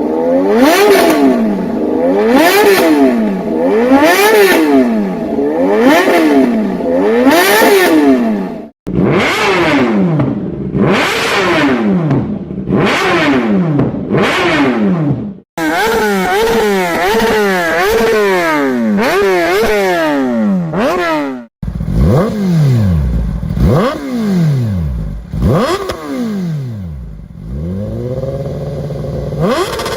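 Kawasaki ZX-10R inline-four sportbike engine being revved through its exhaust, the pitch climbing and dropping again and again, about one rev every second and a half at first. The sound cuts off abruptly three times between clips, and the last stretch has slower, longer rises and falls.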